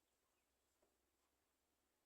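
Near silence: faint background hiss, with one faint click just under a second in.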